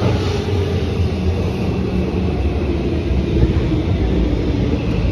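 Electric train running, a loud steady rumble with a motor whine that slowly falls in pitch.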